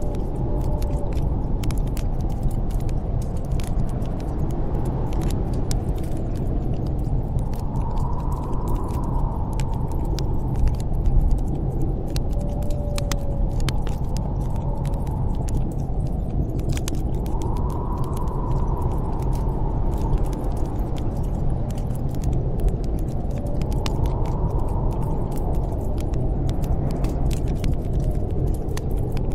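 Snowstorm wind blowing steadily, with a howling whistle that rises and falls every several seconds, over the steady crackle and snap of a wood fire in a fireplace.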